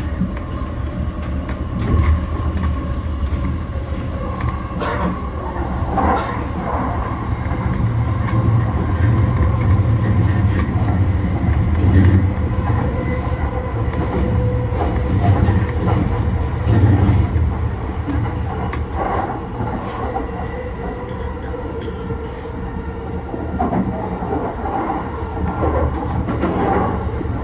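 JR East E235-1000 series electric train running on the line: a steady low rumble of wheels on rail, with scattered clicks from rail joints and faint steady tones from the running gear.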